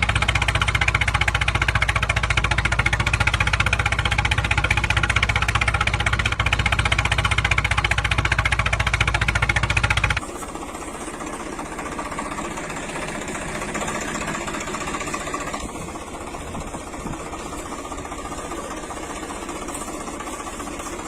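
An engine running with a fast, even knocking beat; about ten seconds in it cuts abruptly to a quieter, rougher engine sound.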